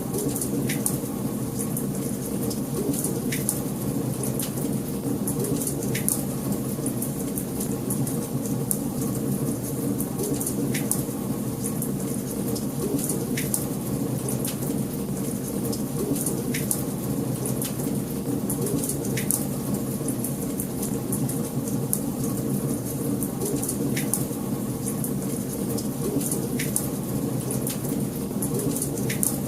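Wood fire burning in a fireplace: a steady low rush of flame with frequent sharp crackles and pops.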